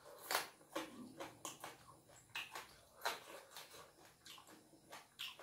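Close-up chewing and lip-smacking of a mouthful of rice and meat: irregular short wet smacks, about three a second.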